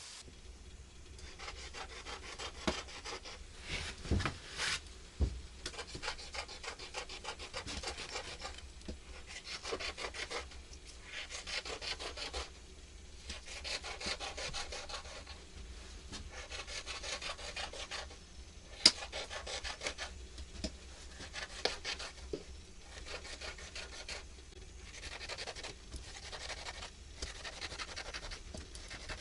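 A hand tool working wood with quick repeated rubbing strokes, in spells of a few seconds broken by short pauses. A few sharp knocks come in between.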